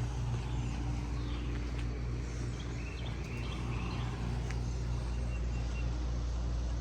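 Outdoor background: a steady low rumble, with faint bird chirps now and then.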